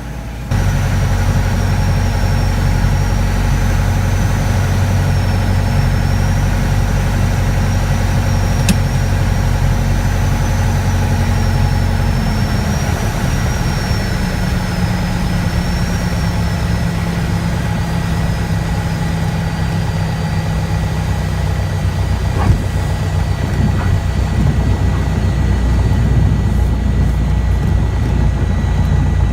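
Piper Archer II's Lycoming O-360 four-cylinder engine and propeller running steadily, the engine note stepping down slightly in pitch about twelve seconds in as the power setting changes.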